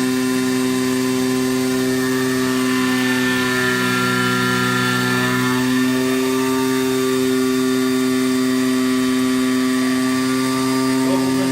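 AOKE DCZ76 flatbed digital cutting machine running, a steady machine hum and whir with a few fixed tones. Some of the tones change briefly a few seconds in, then settle again.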